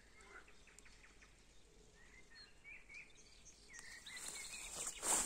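Faint birds chirping in short calls over quiet outdoor background noise. Near the end a rustling noise grows louder, with a bump just before the end.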